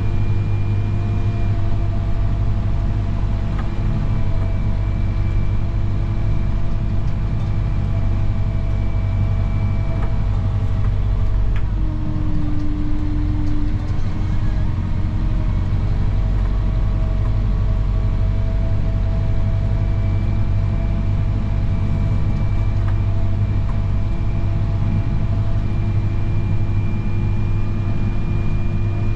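Snowplow truck engine running steadily under load, a low continuous hum with a brief drop in pitch about twelve seconds in, as the plow works a cul-de-sac.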